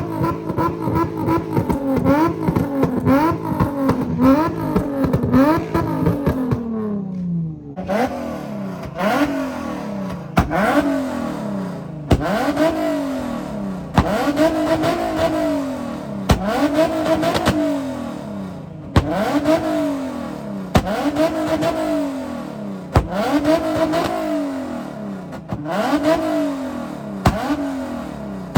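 Infiniti G37's 3.7-litre V6 exhaust being revved over and over while parked: quick blips for about six seconds, the revs dropping away near seven seconds, then long rhythmic revs about every two seconds. Each rev ends in a sharp crack as the throttle closes, the exhaust backfire pops that go with shooting flames.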